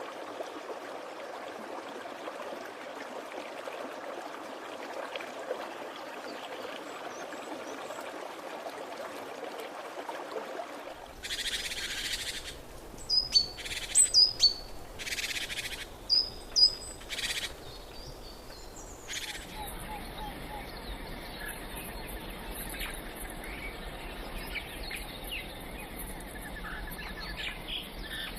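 Rainforest ambience in three spliced sections. First comes a steady rushing noise. About eleven seconds in, sharp bird chirps and whistles take over, loudest in the middle. From about two-thirds of the way through, a calmer bed with fainter scattered calls follows.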